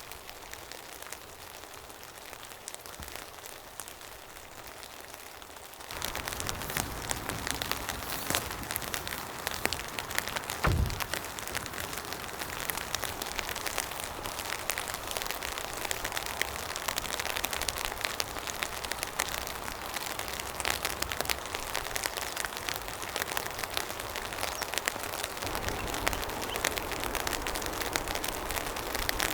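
Steady rain with many individual drops ticking. About six seconds in it becomes clearly louder, and there is a single dull thump a few seconds later.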